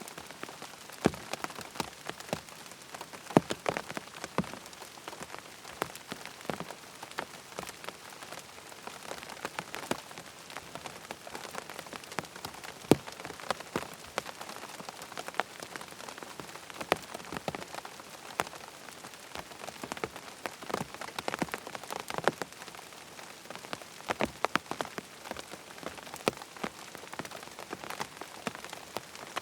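Steady rain pattering on a tent's fabric, a constant hiss with frequent irregular sharper drop hits.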